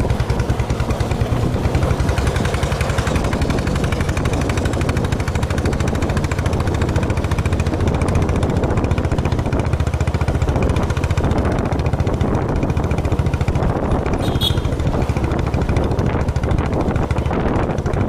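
Motorcycle engine running steadily on the move, a rapid even beat of exhaust pulses. A brief high-pitched chirp sounds about fourteen seconds in.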